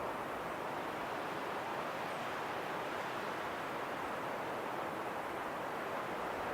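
Steady wind rushing, an even hiss that holds the same level throughout with no gusts or breaks.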